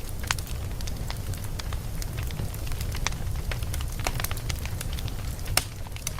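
Wood fire burning in a fireplace: a steady low rumble of flames with irregular sharp crackles and pops from the burning logs, one louder pop about five and a half seconds in.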